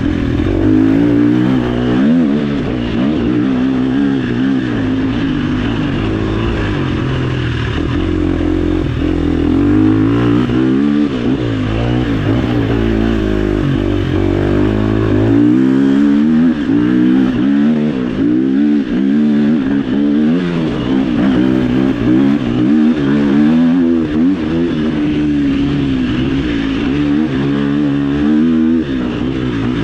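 Off-road motorcycle engine on a dirt trail, revving up and down continuously as the throttle is worked, its pitch rising and falling every second or two.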